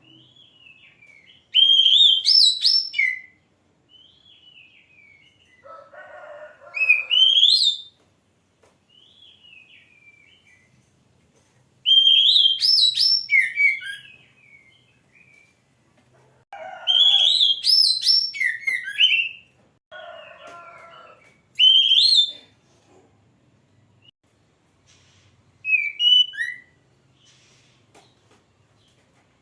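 Oriental magpie-robin (kacer) singing: loud, fast-warbling whistled phrases of one to three seconds, repeating every four or five seconds, with softer chirps between and a few harsh, scratchy notes mixed in.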